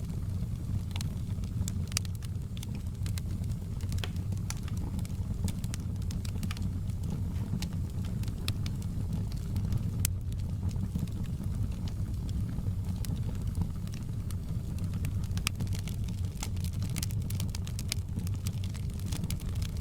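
Wood fire in a fireplace crackling: many sharp, irregular pops over a steady low rumble of the flames.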